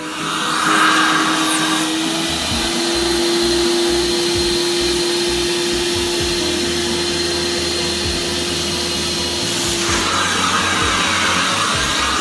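Kärcher washing vacuum cleaner running steadily, with the motor's whine under a loud hiss of suction, as it cleans a chair's upholstery. The suction noise swells briefly near the start and again about ten seconds in.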